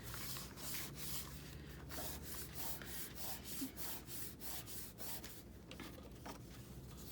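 Paper being rubbed and handled: a run of short, irregular dry brushing strokes.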